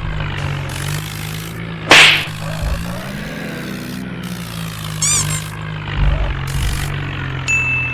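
Hindustan tractor engine running at a steady idle, with edited-in sound effects over it: a sharp whip-like swish about two seconds in, a quick run of rising chirps around five seconds, and a steady high beep starting near the end.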